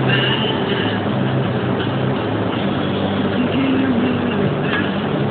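Steady vehicle engine and road noise: a low hum under an even hiss.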